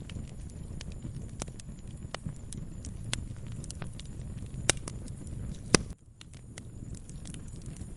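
Wood fire in a fireplace crackling over a low steady rumble, with scattered small pops. Near the middle come two sharp, much louder snaps about a second apart, and the rumble briefly drops away just after them.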